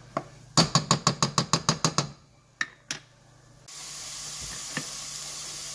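A quick run of about a dozen sharp taps and then two single knocks. About two-thirds of the way in, a steady sizzle of chopped onions and garlic frying in oil in a pot on the stove takes over.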